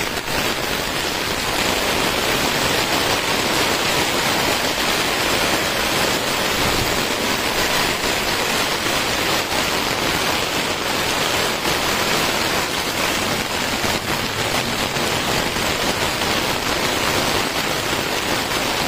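Heavy rain pouring onto a flooded street, a steady even hiss that does not let up.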